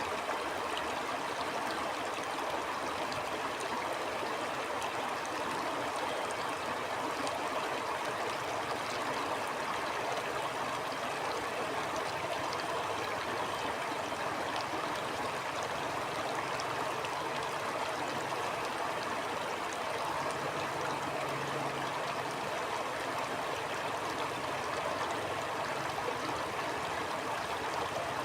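Stream of water flowing steadily, an even rushing and babbling that neither rises nor falls.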